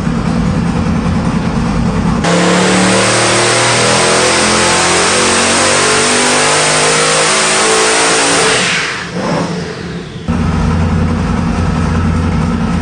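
Boosted 1450 hp LSX small-block V8 idling, then at about two seconds going to full throttle for a power run, its pitch rising steadily for about six seconds. Near the end it drops off and settles back to idle.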